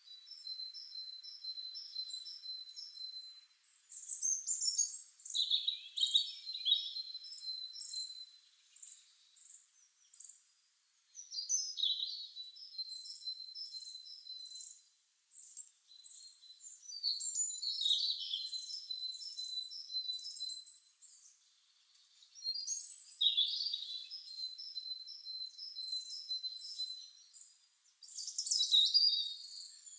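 Garden songbirds chirping and singing: bursts of rapid, high-pitched repeated notes, with a new phrase every five or six seconds.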